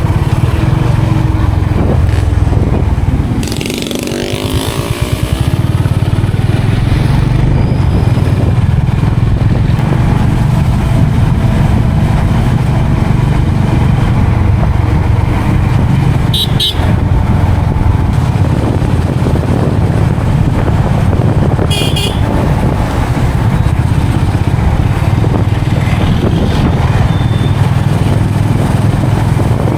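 Motorcycle riding along the road: a steady low engine and road rumble that dips briefly about four seconds in. Two short high-pitched beeps come midway.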